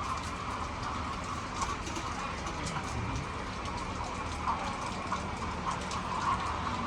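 A flock of chickens: a steady din with many small clicks and taps running through it.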